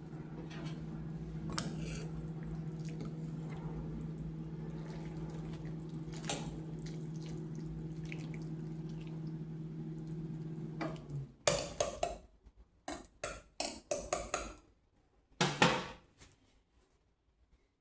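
Kitchen cooking sounds: a steady appliance hum that cuts off sharply about two-thirds of the way through, followed by a run of sharp clanks and clatter of pots, lids and dishes being handled.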